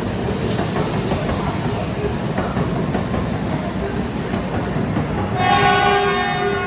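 500 series Shinkansen pulling out of the station, a steady rumble of wheels on rail and running noise as the train gathers speed. Near the end a steady pitched tone with many overtones sounds over it for about a second.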